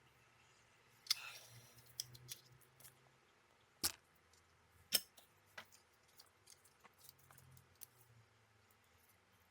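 Small metal repair tools clicking and scraping on a laptop circuit board during work on the charging-port solder pads: a short scrape about a second in, two sharp clicks near four and five seconds, and scattered light ticks.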